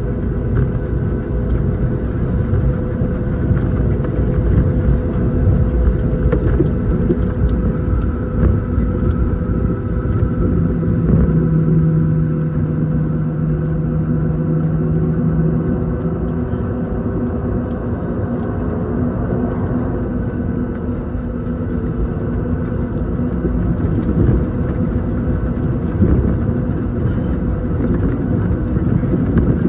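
Cabin noise of a Boeing 737-700 on the ground with its CFM56 engines running at idle: a steady low rumble with a few steady tones over it. A deeper hum swells in for about five seconds in the middle.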